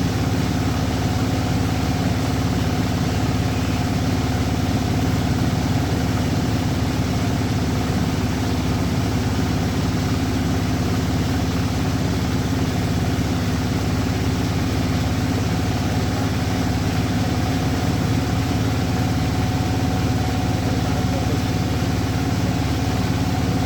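An engine running steadily at an even idle, a constant hum that does not rise or fall.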